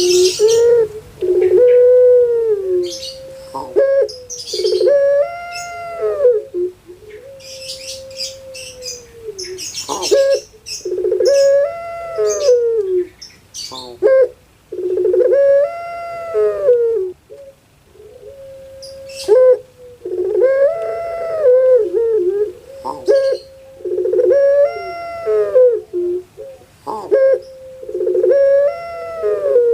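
Puter pelung, a long-voiced Javanese breed of Barbary dove, cooing: a string of long drawn-out calls, each rising and falling in pitch, repeated every few seconds. Short high chirps from small birds come in now and then, mostly in the first half.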